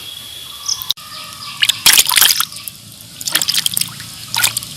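Short splashes and trickles of water, a cluster about two seconds in and another near the end.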